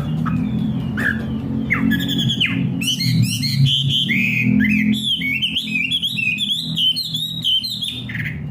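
Caged songbird (a 'wambi' in Indonesian bird-keeping) singing vigorously. It gives separate chirps at first, then from about three seconds in a fast, continuous run of sharp falling whistled notes, over a steady low hum.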